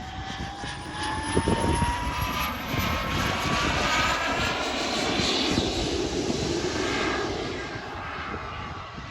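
RC model jet's turbine engine whining with a rush of air. The whine rises in pitch early on, the sound swells in the middle as the jet passes, then it fades near the end. Wind buffets the microphone.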